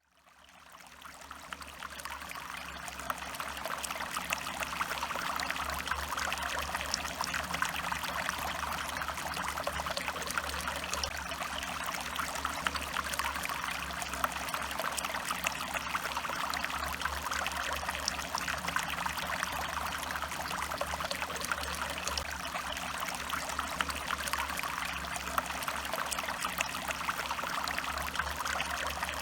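Stream water running and trickling steadily, with a dense patter of small splashes; it fades in over the first few seconds.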